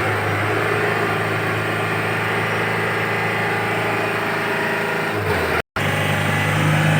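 Isuzu Trooper's diesel engine idling steadily. After a brief break about five and a half seconds in, it runs on at a steady, higher pitch.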